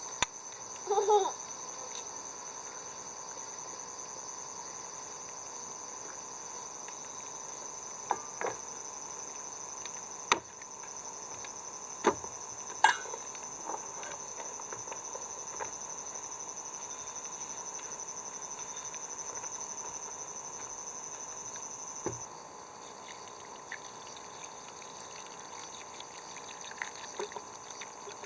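Insects chirring steadily, several high-pitched layers at once, the highest one stopping about three quarters of the way through. A few scattered sharp knocks and clinks.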